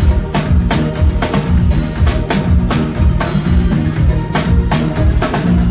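Live band playing during a sound check: drum kit strokes in a steady beat over a sustained bass line, loud through the PA.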